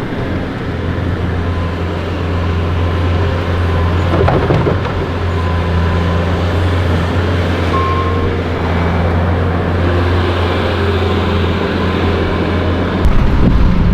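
Snowplow truck's engine running steadily as it plows, a constant low drone under a noisy rumble. The low rumble grows louder near the end.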